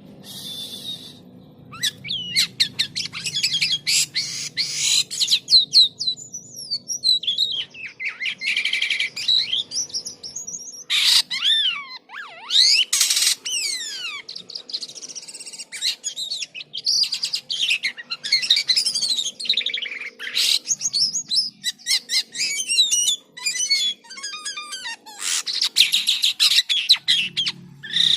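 Jalak kapas starling singing vigorously: a long, varied run of whistles, rapid chattering trills, gliding notes and harsh bursts with only short breaks.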